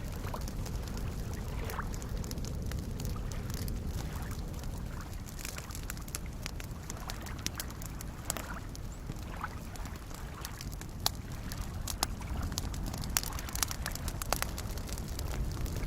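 Campfire crackling with scattered sharp pops over a steady low wash of soft lake waves. A few louder pops come in the second half.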